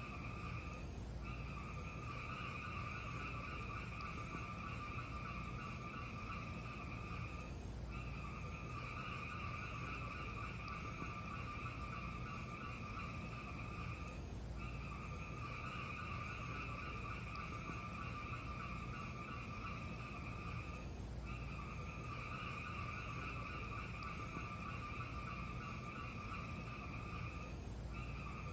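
Steady hiss of a looped fireplace fire recording with a few faint crackles, the loop breaking off briefly about every seven seconds.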